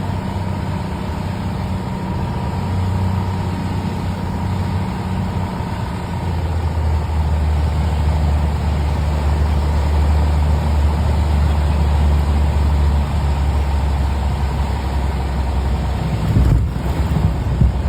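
Small airplane's piston engine and propeller droning steadily, heard inside the cabin. The low engine note drops to a deeper hum about six seconds in, and there are a few knocks near the end.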